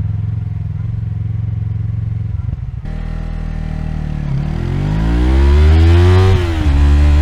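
Yamaha MT-03 parallel-twin engine running low and steady, then accelerating with revs rising for about two seconds. Near the end the revs drop sharply at an upshift, and the engine pulls on steadily in the next gear.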